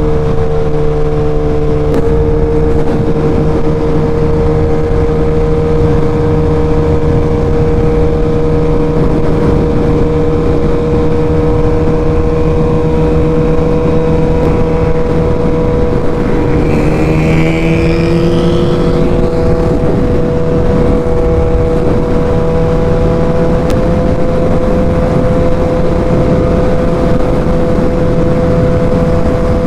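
Sport motorcycle engine running at a steady cruise, with heavy wind rush on the rider's microphone. About two-thirds of the way through, the engine note dips and then climbs back, as on a throttle change or gear shift.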